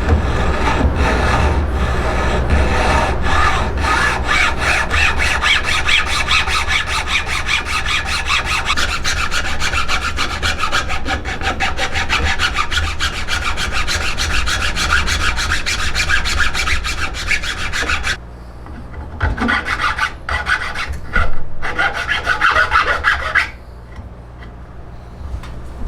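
A hand tool such as a rasp or file working the wood of a yew bow stave in rapid back-and-forth strokes. The strokes run steadily, break off about eighteen seconds in, come back in a few short bursts, then fall quiet shortly before the end.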